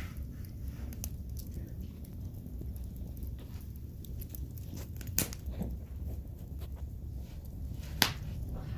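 Wood fire in a fireplace crackling over a low steady rumble, with scattered small ticks and two sharper, louder pops of burning wood, about five seconds in and again about eight seconds in.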